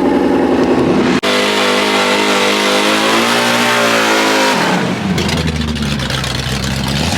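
A car engine revving loudly. Its note climbs, holds and drops back about four and a half seconds in, then settles to a lower rumble. The sound breaks off abruptly for an instant about a second in.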